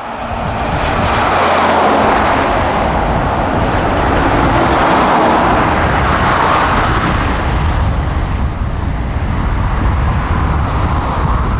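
Four turbofan engines of a Boeing 747-400F at takeoff power: a loud, steady rushing noise that builds over the first couple of seconds and then holds.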